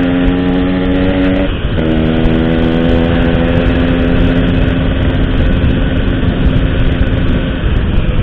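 Motorcycle with an Altech C17 aftermarket exhaust running at a steady cruise, its exhaust note briefly breaking about a second and a half in before settling back to a steady pitch, over steady wind and road rumble.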